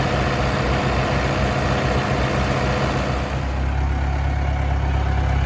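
International Harvester 574 tractor engine running steadily. About three seconds in, the higher part of the sound falls away, leaving a steadier low drone.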